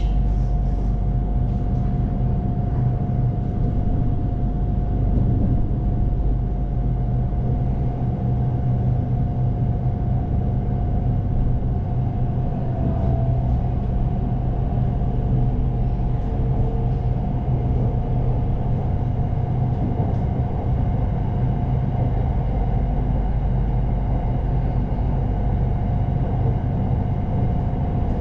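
Red Line electric commuter train running at a steady speed: a constant low rumble with a steady mid-pitched whine over it.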